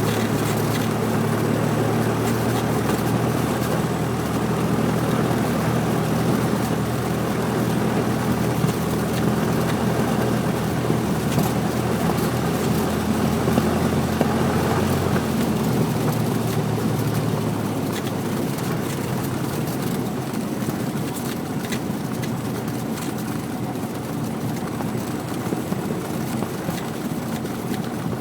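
Cessna 172's piston engine and propeller running steadily, heard inside the cabin as a loud drone with wind noise. About halfway through the engine note shifts and the sound gets a little quieter.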